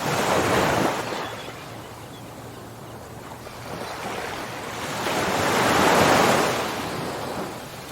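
Ocean waves on a shore: a wave washes in at the start and fades, then after a lull a bigger wave swells and breaks about six seconds in, louder than the first.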